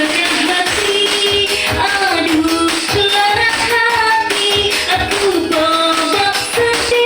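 A voice singing held notes that slide from one pitch to the next, over instrumental music with a beat.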